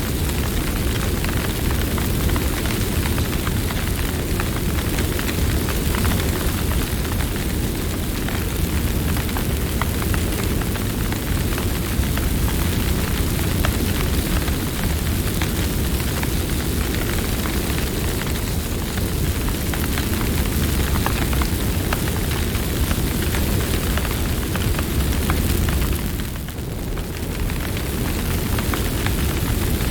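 Campfire burning: a steady low rush of flames with frequent small crackles and pops from the burning wood. It eases briefly near the end.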